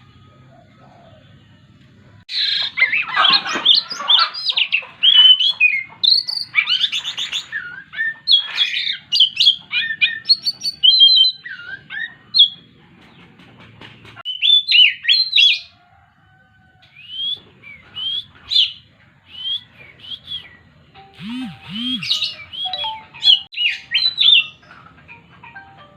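Oriental magpie-robin singing a varied run of quick whistles and chirps. The song starts about two seconds in, with short breaks along the way.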